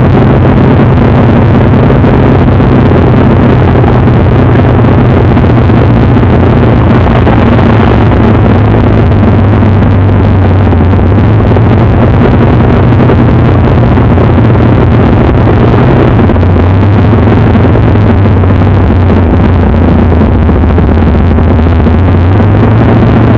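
Engine of a 1965 Ford Mustang drag race car running very loudly at steady, fairly low revs, with small shifts in pitch about two-thirds of the way through and again near the end.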